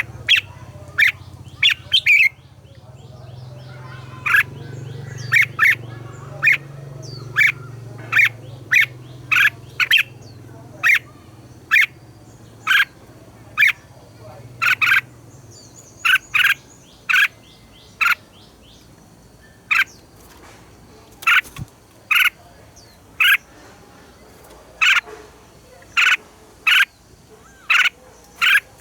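Red-whiskered bulbuls singing: short, bright phrases repeated about once a second, at times in quick pairs, over a faint low hum that fades out about halfway through.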